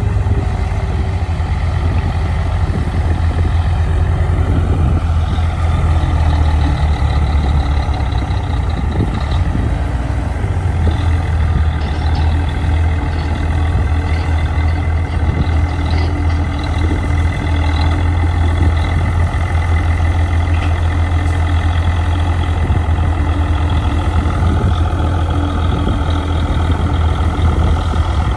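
Bulldozer's heavy diesel engine running steadily, a loud deep hum with fainter high steady tones above it.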